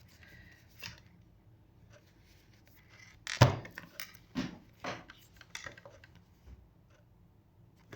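Tarot cards being handled and laid down on a table: a few separate soft taps, the loudest about three and a half seconds in.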